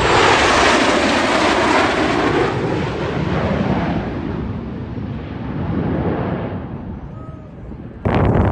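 A jet aircraft passing by, its loud rushing noise fading away over several seconds. Near the end it cuts off abruptly to wind buffeting the microphone.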